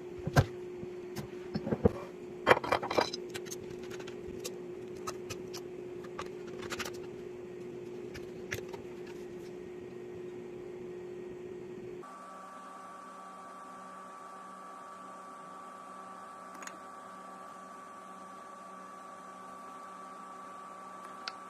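Small objects clicking and knocking as they are handled and put in place, over a steady low hum. About twelve seconds in, the clicks stop and a different, higher steady hum carries on with only a tick or two.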